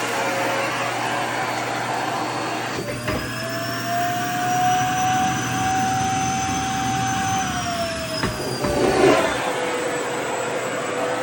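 Vacuum cleaner running steadily with a motor whine. The whine rises in pitch about three seconds in and drops back about eight seconds in, with a brief noisy flutter at each change, as a skirt's fabric is sucked against the nozzle and let go.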